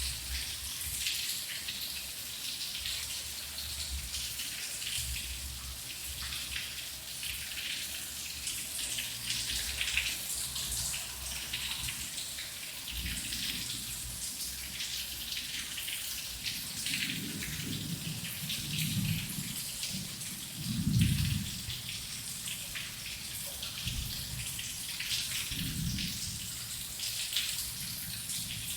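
Heavy rain falling steadily with dense pattering. Low thunder rumbles in several swells through the second half, the strongest about two thirds of the way in.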